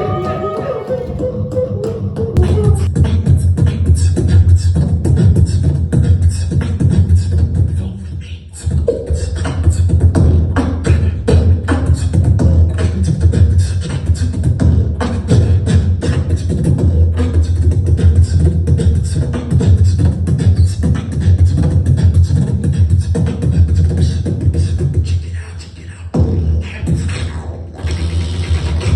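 Beatboxing: a fast, dense rhythm of sharp clicks and snares over heavy bass, dropping out briefly about eight seconds in and again shortly before the end.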